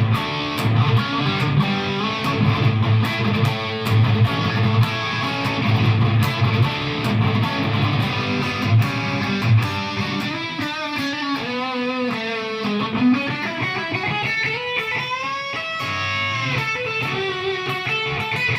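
Electric guitar played through a Boss Katana MK II amp head on its Brown channel, gain maxed, for a heavily distorted high-gain tone. The first half is rhythmic low chugging riffs; about halfway through it turns to sustained lead notes with bends and vibrato.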